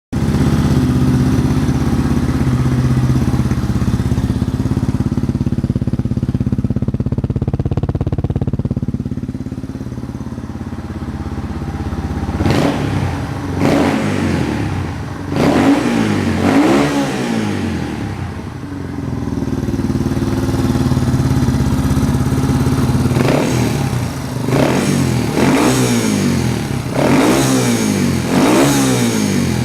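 Yamaha TW200 single-cylinder four-stroke engine running through an OVER carbon aftermarket muffler. It idles steadily, is blipped about four times roughly halfway through, settles back to idle, then gets a run of about five quick revs near the end.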